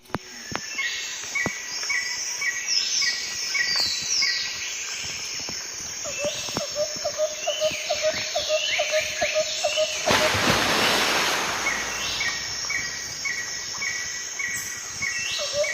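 Several birds calling in woodland, with series of short repeated chirps and quick falling whistles. A fast run of notes comes in the middle, and a brief rush of hiss about two-thirds of the way through.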